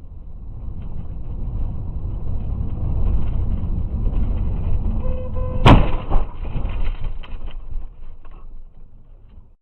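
Car road and engine rumble that builds steadily, broken a little past halfway by one sharp, loud impact of a collision, with a few smaller knocks after it as the noise dies away and then cuts off suddenly.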